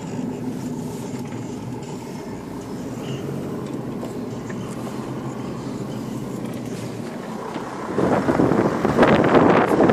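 A 4x4's engine running steadily as it drives slowly along a sandy track, heard from inside the cab. About eight seconds in, loud wind buffeting on the microphone cuts in over it.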